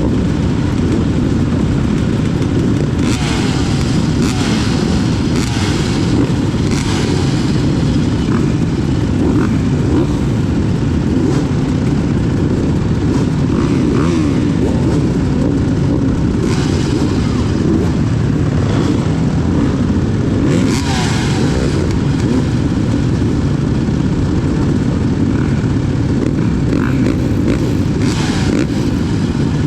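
Motocross dirt bikes running on the track, engines revving up and down over a steady rumble, with bikes passing close by several times.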